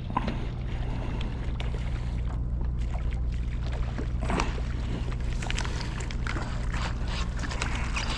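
A steady low engine hum, like a boat's motor running, with light water sounds and a few small knocks over it.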